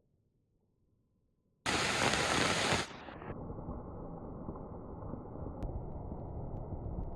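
Rushing floodwater: a steady rush of water noise starts suddenly about a second and a half in, loudest for the first second, then settles to a steady, duller rush.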